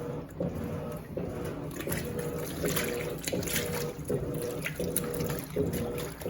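Electrolux LTD15 top-loading washing machine agitating a load in water: the motor hum starts and stops in even strokes about every three quarters of a second, with water sloshing in the tub.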